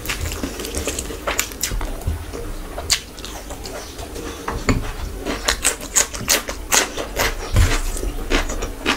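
Close-miked eating sounds: wet chewing and lip-smacking clicks as handfuls of rice and curry are eaten by hand. The clicks come in a rapid, irregular run that gets busier in the second half.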